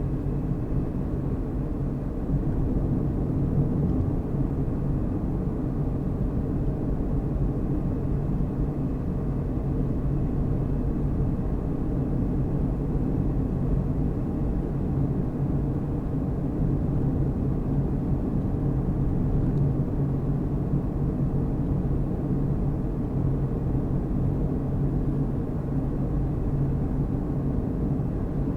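Car driving at a steady speed: a steady low drone of engine and tyre noise with a constant hum.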